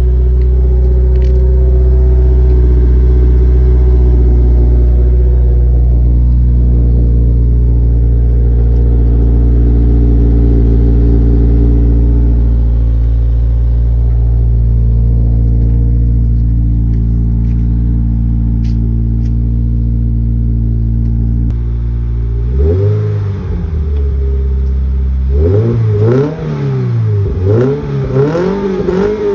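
Toyota GR86's 2.4-litre flat-four running through an aftermarket exhaust, idling steadily after a cold start. About 22 seconds in the engine is revved, then blipped several times in quick succession near the end, each rev rising and falling sharply.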